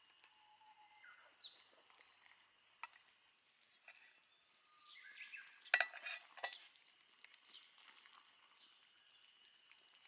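A short cluster of light clinks and rattles, like camp cookware or utensils being handled, midway through, over a faint steady high-pitched whine, with a brief bird chirp about a second in.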